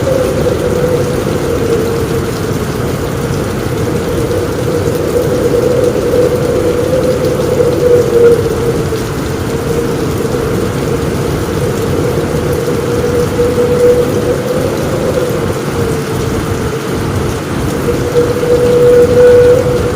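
Heavy rain falling on a roof: a steady, dense wash of noise weighted toward the low end, with thunder in the background and slight swells in loudness a few times.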